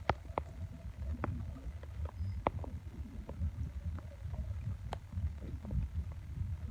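Boat ambience: a low, uneven rumble with irregular sharp ticks and knocks scattered through it.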